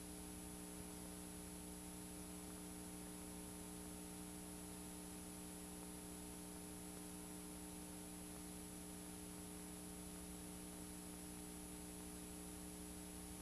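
Steady electrical hum with faint tape hiss and a thin high whine, unchanging throughout: the noise floor of a VHS tape playing with no programme sound.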